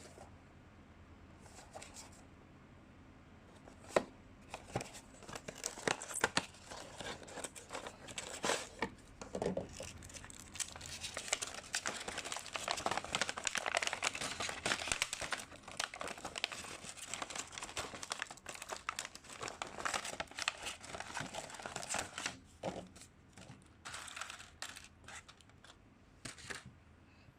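Model packaging being handled and opened: plastic and cardboard crinkling and tearing, with many small clicks and snaps. It begins about four seconds in and is busiest in the middle.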